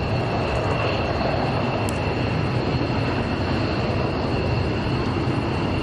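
Jet aircraft engines running steadily: a loud rushing noise with a high, steady whine on top.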